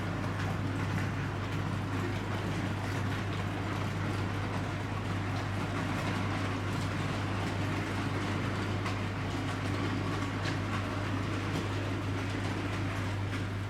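OO gauge model locomotive running around the layout on a test run: a steady electric-motor hum with the rolling of wheels on the rails and faint clicks over the track.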